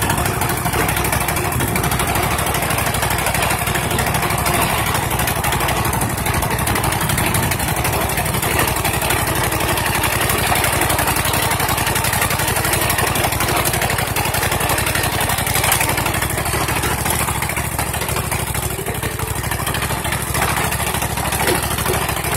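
Rebuilt 21 hp V-twin riding-mower engine running steadily while the mower is driven, held at one speed because no throttle is hooked up.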